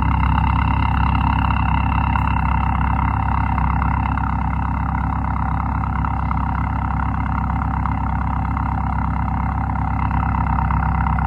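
Ford Focus Mk1 1.8 TDdi four-cylinder turbodiesel idling steadily shortly after a cold start, with a high whine that fades out about four seconds in.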